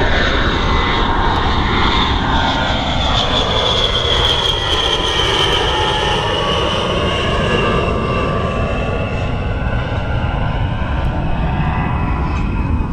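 A-10 Thunderbolt II's twin turbofan engines during a display pass, a loud steady jet roar with a high whine that sweeps in pitch as the jet goes by.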